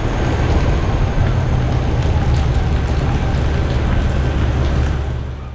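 Steady hiss over a low rumble from a narrow-gauge train standing at a station platform.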